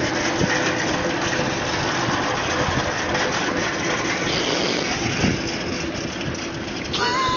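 An engine running steadily under a loud rushing noise, with a steady low hum.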